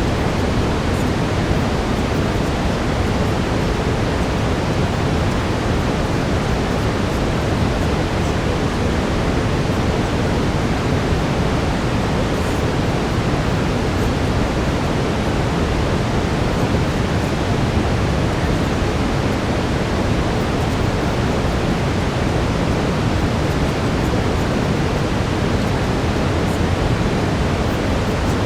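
Steady brown noise: an even, unbroken hiss with most of its weight in the lows, with a faint steady tone running underneath it.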